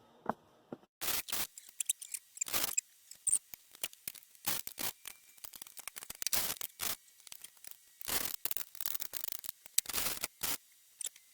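Metal hand tools clicking and scraping in short, irregular bursts while the spark plugs are being changed.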